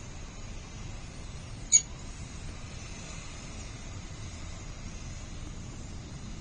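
A falcon chick gives one short, high-pitched squeak about two seconds in, over a steady background hiss.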